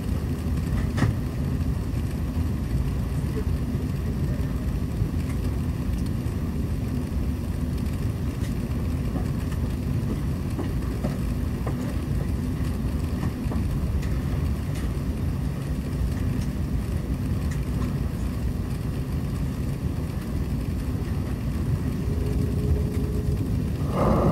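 Steady low rumble of a jet airliner's engines and airflow heard from inside the passenger cabin, with a few faint clicks.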